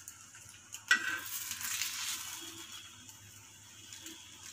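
Egg-in-bread frying on a hot tawa with a light sizzle. About a second in, a sharp knock, then the sizzle swells briefly and fades.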